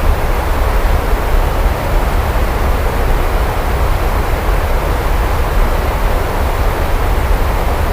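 Steady heavy rain, an even wash of noise with a deep low rumble underneath and no distinct thunderclap.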